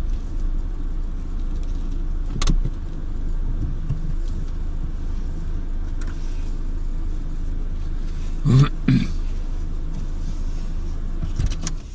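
A car driving along, a steady low rumble of engine and road noise, with a couple of brief louder bumps.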